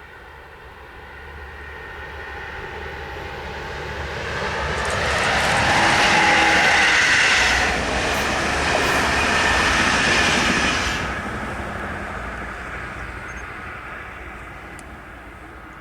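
A train approaching, passing close by and fading away. The loudest stretch is in the middle, about five to eleven seconds in.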